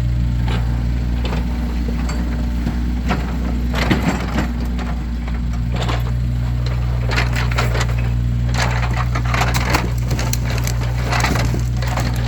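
Split firewood logs being tossed and stacked, a run of irregular wooden knocks and clatters, over a steady engine hum.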